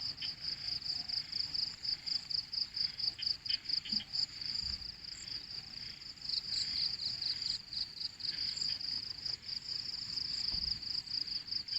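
Insects chirping in a high, steady train of rapid pulses, about five a second.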